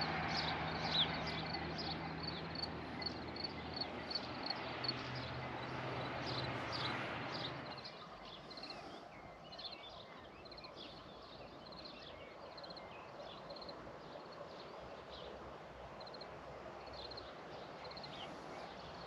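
Small birds chirping and singing in short, repeated high calls throughout. Under them, a steady low hum and a rushing noise fade out about eight seconds in, leaving quieter outdoor ambience.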